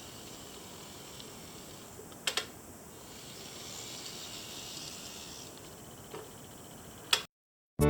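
Steady faint hiss with a few light clicks: a double click about two seconds in and single clicks near six and seven seconds, after which the sound cuts off abruptly.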